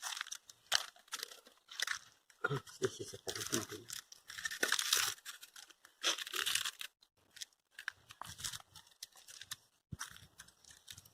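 Dry kindling for a bonfire crackling and rustling as it is handled and set alight: irregular crackles and crunches with short gaps between them.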